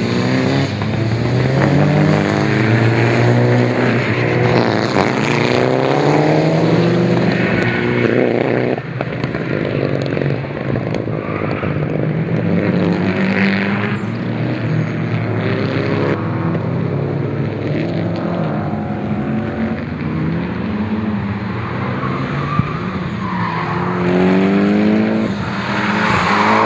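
Subaru Impreza STI's turbocharged flat-four engine being driven hard, its pitch climbing through the revs and dropping back at each gear change, several times over. It is quieter through the middle and loud again near the end as the revs climb once more.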